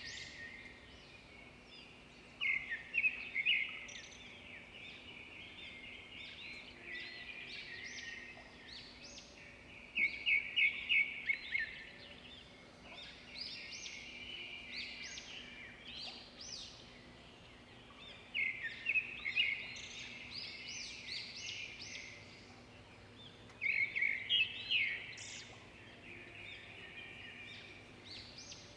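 Swiftlets twittering: bouts of rapid, high chirps, with four louder bursts spread through, over a faint steady low hum.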